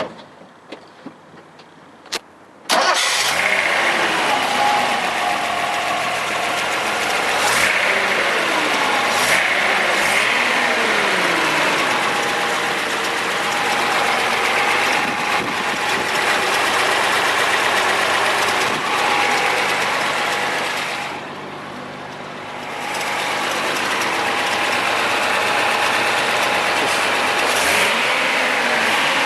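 1970 Datsun 240Z's straight-six engine starting: a few clicks, then it catches suddenly about three seconds in and runs, revved up and let back down several times, with a quieter stretch about two-thirds of the way through.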